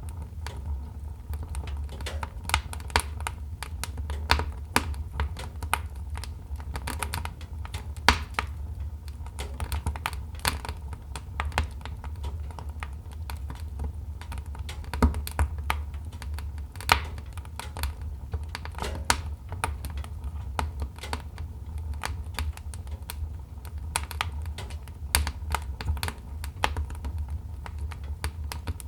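Wood fire crackling in a fireplace: irregular sharp pops and snaps, some louder than others, over a low steady rumble.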